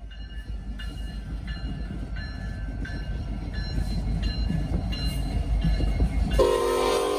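Norfolk Southern freight train led by two GE AC locomotives approaching, its low rumble growing steadily louder, with a bell ringing about twice a second. About six seconds in, the locomotive horn starts a loud, multi-note chord.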